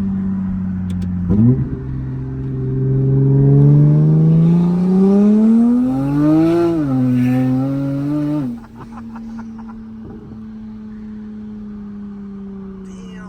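Big-turbo Toyota Supra MK5's B58 turbocharged straight-six under a hard pull: the engine note climbs steadily in pitch for about five seconds, drops as it shifts, then cuts off abruptly about two-thirds through with a few short crackles as the throttle is lifted. It settles into a steady, quieter cruise.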